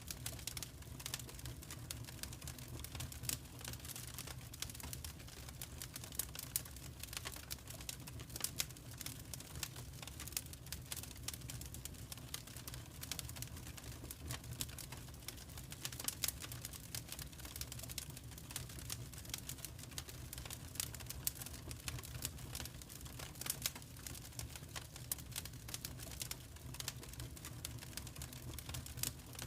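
Wood fire crackling in a fireplace: a dense, irregular run of small pops and snaps, with a few louder ones, over a steady low rumble.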